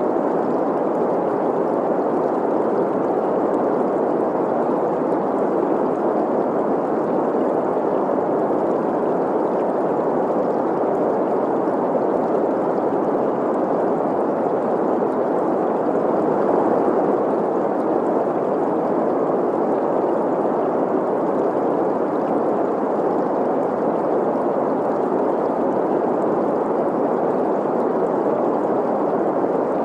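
Steady green noise, an even rushing hiss concentrated in the middle range, mixed with the sound of a flowing stream.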